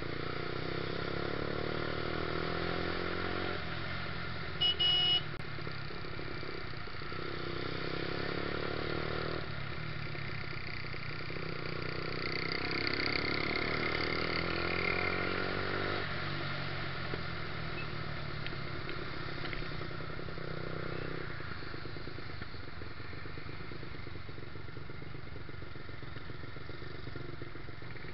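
Yamaha YZF-R125's single-cylinder four-stroke engine under way in traffic, its pitch climbing again and again as it pulls through the gears, then settling to a steadier, lower note for the last few seconds. A vehicle horn gives two short beeps about five seconds in.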